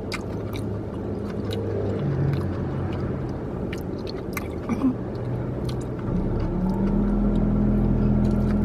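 Chewing and small mouth clicks as a mouthful of fried noodles is eaten, over the steady low hum of a car engine. The hum rises and grows louder about six seconds in.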